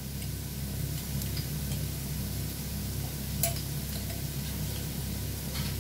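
Sliced onions frying gently in oil in a pan, a soft steady sizzle over a low hum with a faint regular pulse. A sharp click about three and a half seconds in as the ginger-garlic-chilli paste goes in, and another near the end.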